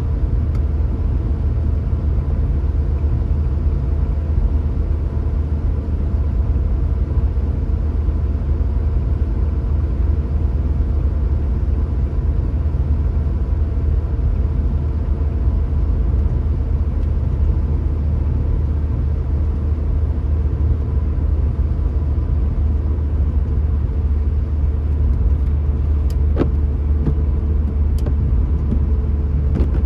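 Steady low rumble of a car driving along, engine and road noise together, with a few steady hum tones over it. A couple of faint clicks come near the end.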